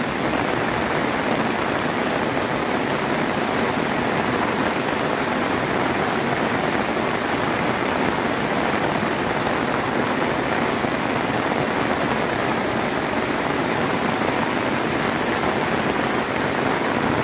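Heavy tropical rain pouring steadily, a dense, even hiss of falling water.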